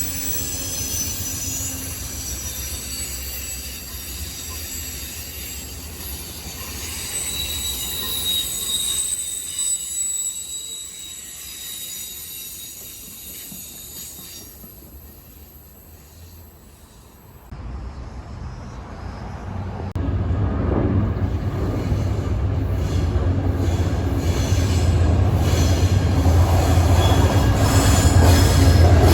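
Train wheels squealing on the rails, a high-pitched screech that fades away over the first half. After an abrupt change past the middle, a train's low rumble builds louder toward the end.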